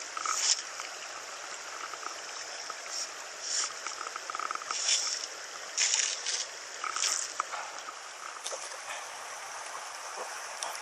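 A small stony stream running, with several short louder rushes of water through the first half or so.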